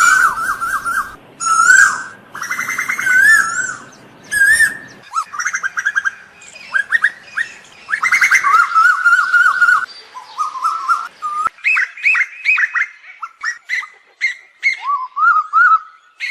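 Asian koel calls: run after run of quick, wavering whistled notes, some series rising and some falling, with short gaps between them.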